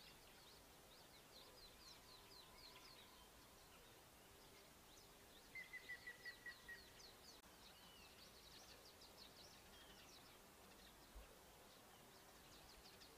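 Faint birdsong from small birds: many short, high chirps throughout, with a quick run of about seven even notes a little over five seconds in.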